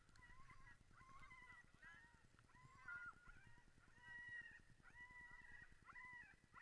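A dog-sled team of many dogs yelping and whining together, high calls overlapping without pause.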